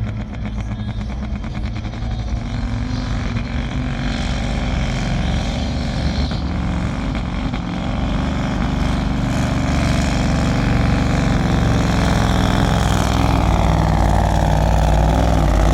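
Scania V8 diesel engine of a pulling truck working hard under full load while dragging the weight sled, running steadily and growing louder about halfway through.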